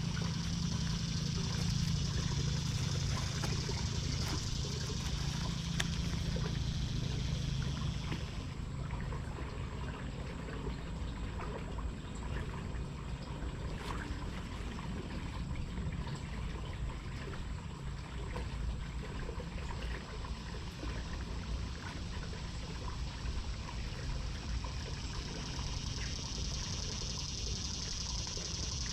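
Water trickling and pouring steadily at the pond's edge. A higher hiss and a low hum drop away about eight seconds in, and the hiss comes back near the end.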